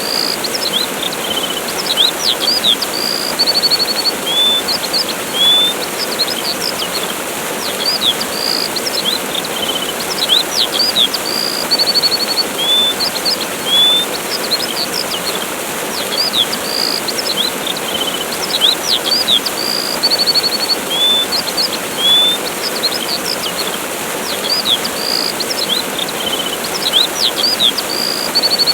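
Steady rushing of a waterfall with small birds chirping over it: many short high chirps, quick sweeping calls and an occasional rapid trill.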